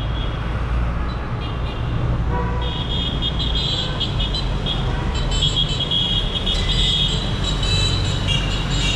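Dense city traffic with a steady low rumble of engines, and car horns honking in short, overlapping toots from about three seconds in.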